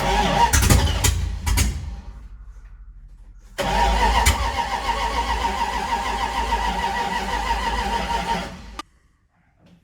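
1981 Dodge D150 pickup's V8 being cranked over by the starter motor, with the starter whine and a steady cranking rhythm. There is one burst, then a softer pulsing, then a longer loud crank that stops suddenly near the end. The engine does not catch, because the fuel pump is bad.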